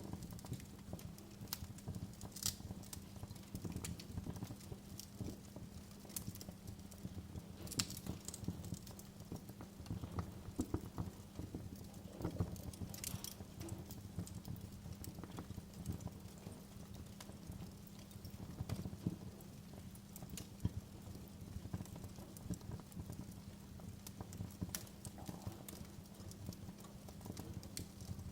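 Wood fire crackling in a fireplace: a dense low rustle of small crackles with frequent sharp pops scattered through it.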